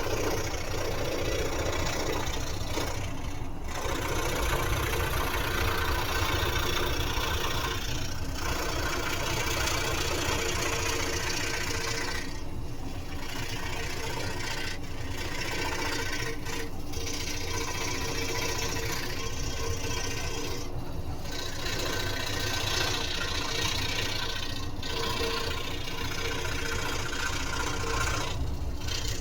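Scroll saw running steadily while cutting out a piece, a constant motor-and-blade buzz with brief dips in its hiss every few seconds.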